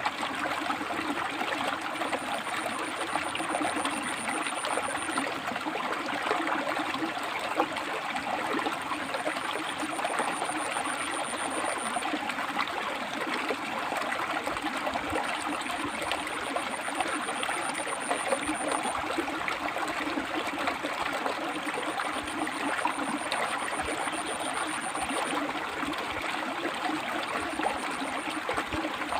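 River water flowing and splashing steadily over and between rocks. A thin, high buzz comes and goes every few seconds above it.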